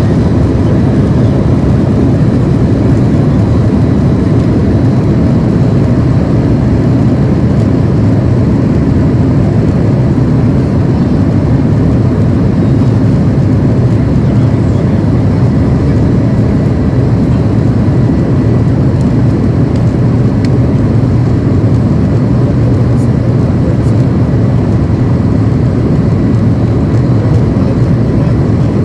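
Steady, loud jet engine noise heard from inside the cabin of a Boeing 737-800, with its CFM56-7B turbofans running and a deep, even rumble.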